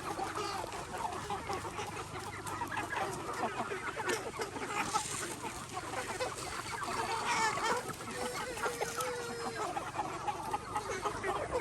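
A flock of chickens clucking and calling over one another, with a rooster crowing partway through.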